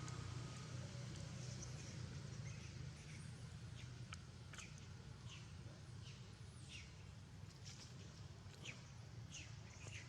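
Many short, high-pitched animal squeaks, each falling quickly in pitch, come at irregular intervals from about a second in, over a steady low hum.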